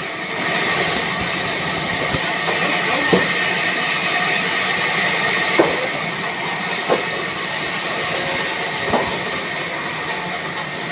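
Sawmill machinery running with a steady hiss and a few faint knocks.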